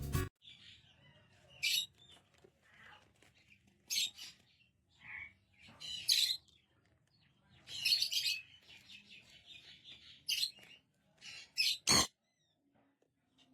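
Pet parrot giving short, high chirps and squawks, one every second or two, with a sharp click about twelve seconds in.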